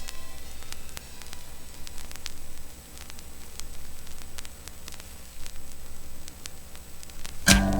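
Vinyl record surface noise in the silent groove between tracks: a steady low hiss with scattered clicks and pops. The next track's music starts abruptly near the end.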